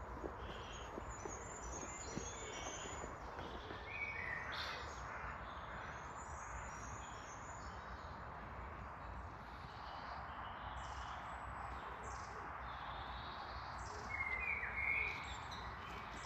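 Woodland birdsong: several songbirds singing, with many short high chirps throughout and louder, lower notes about four seconds in and again near the end, over a steady background hiss.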